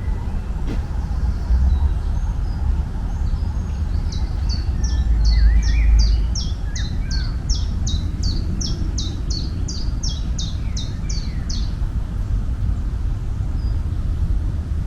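A songbird singing a long series of repeated, quickly falling high notes, about three a second, starting about four seconds in and stopping near the middle, over a steady low rumble.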